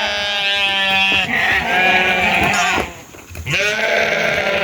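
Several sheep bleating in long, overlapping calls, with a short break about three seconds in before another bleat.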